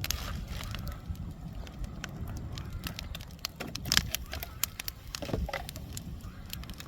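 Bonfire of old wooden furniture and junk crackling and popping irregularly over a steady low rumble.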